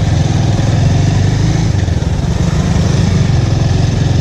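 Bajaj Avenger's single-cylinder engine running steadily while the motorcycle is ridden along, its low pulsing exhaust note under a constant rush of wind noise.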